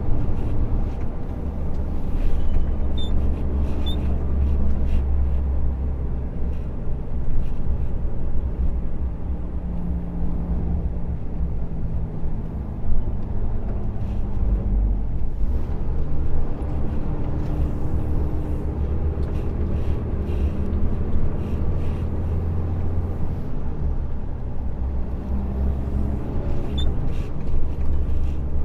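Truck engine and road noise while driving: a steady low drone whose pitch shifts a few times as engine speed changes, with occasional light knocks.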